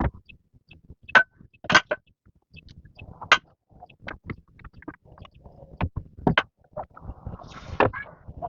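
Irregular knocks and clattering taps, with a few sharp loud strikes among lighter ones and no steady rhythm.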